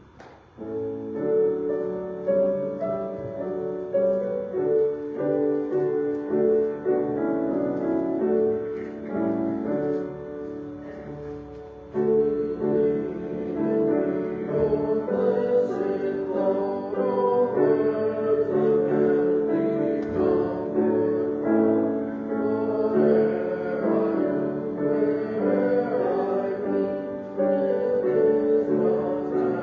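Piano playing a slow piece of steady chords and melody, starting about a second in, growing softer just before twelve seconds and then fuller again.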